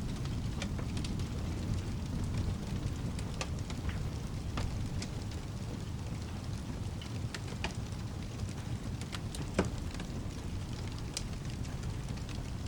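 Steady rain with a low rumble underneath, and a wood fire crackling with scattered sharp pops.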